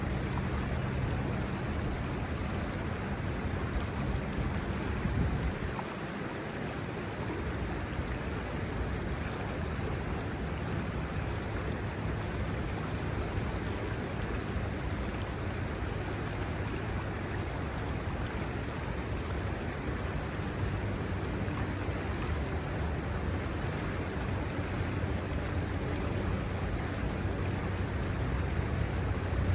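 Shallow river water running over a stony bed, a steady rushing murmur, with a low rumble underneath that dips briefly about six seconds in.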